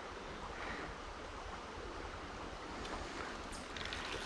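Steady rush of a trout creek's running water, an even continuous noise with no distinct events.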